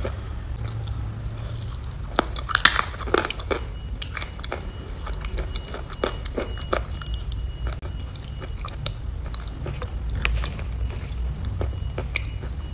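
Close-miked ASMR eating sounds: wet chewing with sharp mouth clicks and smacks, busiest about two to three seconds in, over a low steady rumble.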